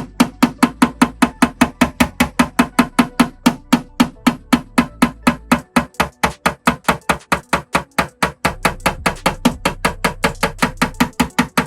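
Steady rapid tapping of a PDR knockdown tool and hammer on a car's sheet-metal body panel, about five taps a second, knocking down a high spot left by over-pulling with a glue tab.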